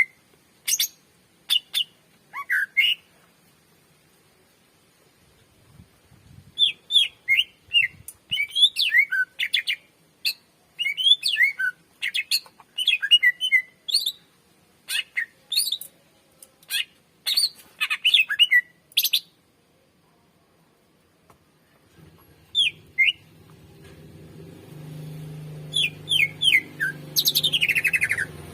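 Cucak ijo (green leafbird) singing: rapid strings of sharp chirps and whistled notes in bursts with short pauses, ending in a long falling whistle. A low steady hum rises behind the song in the last few seconds.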